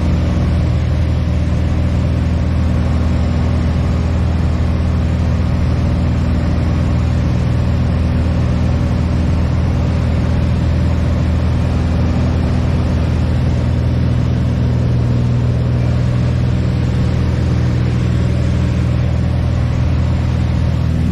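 Light airplane's piston engine and propeller running steadily at constant power, a deep even drone without breaks.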